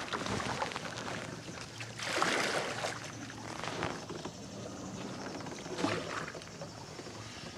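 Water splashing and sloshing alongside a kayak as it moves, rising in swells every second or two as a paddle works the water.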